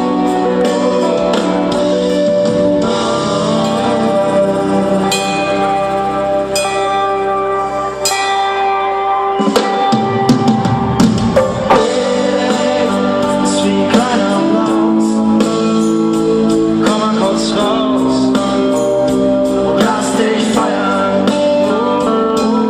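Live band playing an instrumental passage of a pop song, with guitar and drums and some singing.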